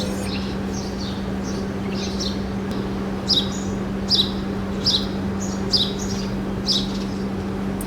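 Bird chirping: a run of short, high, falling calls about one a second, loudest through the middle of the stretch, over a steady low hum.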